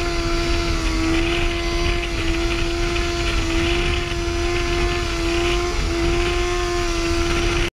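Sport motorcycle engine held at steady high revs, a constant whine that wavers only slightly, with wind buffeting rumbling on the helmet microphone.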